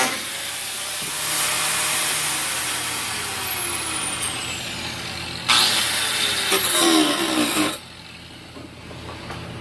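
Power tool motor running in bursts: its pitch falls as it winds down, it starts again sharply about five and a half seconds in, and it cuts off suddenly near the end.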